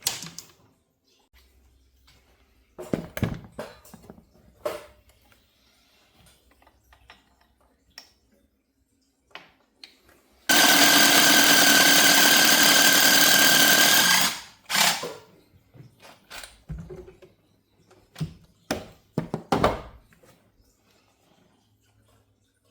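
A power drill runs steadily for about four seconds midway, driving the reamer that cuts out the stripped spark plug threads in a 5.4 Ford Triton cylinder head. Scattered clicks and knocks of tools being handled come before and after.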